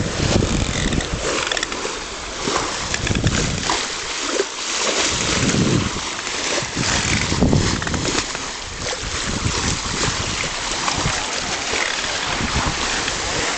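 Wind buffeting the microphone in uneven low gusts, over the steady rush and hiss of water along the hull of a Bavaria Match 35 sailing yacht under way.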